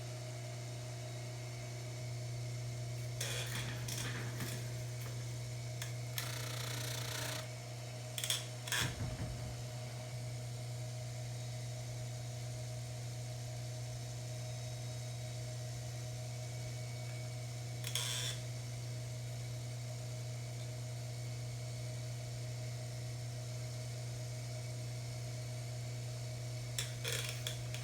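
Baldor 353T dental lathe running as a buffing motor with a steady hum, broken by a few brief hissing bursts, several in the first nine seconds, one midway and a couple near the end.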